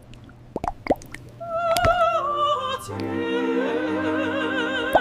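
A few wet plops at first, then an operatic voice singing with a wide vibrato over sustained chords, starting about a second and a half in.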